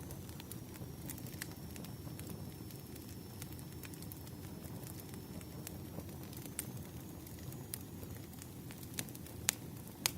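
Wood fire crackling, with a steady low rumble of the burning logs and scattered sharp snaps and pops, a couple of louder pops near the end.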